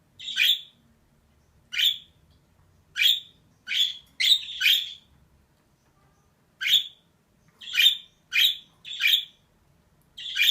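Female budgerigar calling: short, harsh chirps, about eleven in all, coming singly or in quick pairs with a longer pause about halfway through.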